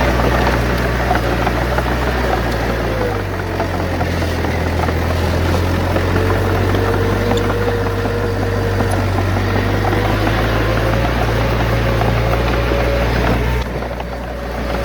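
Bulldozer's heavy diesel engine running steadily while working. Its low drone shifts about three seconds in and dips briefly near the end, with a wavering whine above it.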